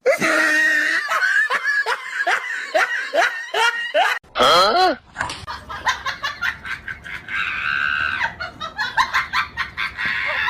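People laughing hard in repeated bursts, each falling in pitch, about two a second. About four seconds in the sound changes to another round of laughter and voices.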